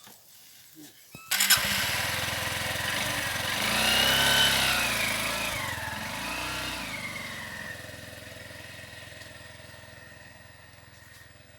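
An engine starts suddenly about a second in and revs up and down twice, then keeps running and slowly fades away.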